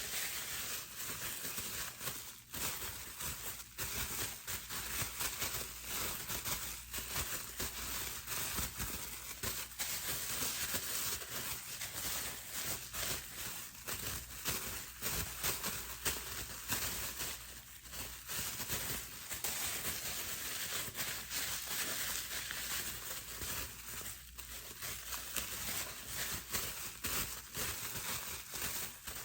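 Bubble wrap being handled and squeezed: a dense, continuous run of small plastic crackles and snaps.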